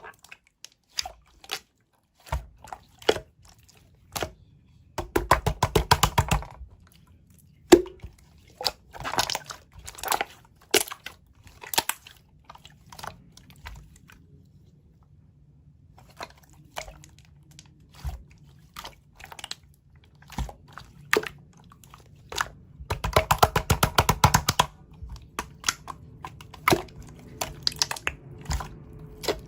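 Slime being squished and pressed by hand: many sharp wet clicks and pops, with two dense runs of rapid crackling, about five seconds in and again past the twenty-second mark.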